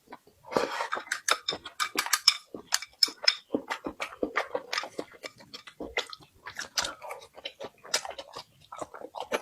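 Close-up chewing of food, with a dense run of quick wet clicks and smacks, several a second.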